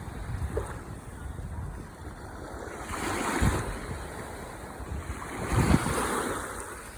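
Ocean waves breaking on the shore in a steady wash, with two waves swelling and crashing, one about halfway through and a louder one near the end. There is wind rumble on the microphone.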